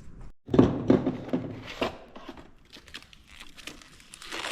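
Crinkling, rustling handling noise, densest in the first couple of seconds, then scattered small clicks and a short rustle near the end.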